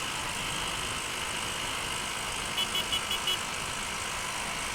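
Steady wind and road noise of a Honda Unicorn motorcycle riding at speed, with five quick, high-pitched beeps a little past halfway.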